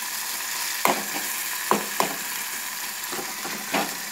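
Chopped onions and tomatoes sizzling in hot oil in a pan while a metal spoon stirs them, scraping and knocking against the pan a few times.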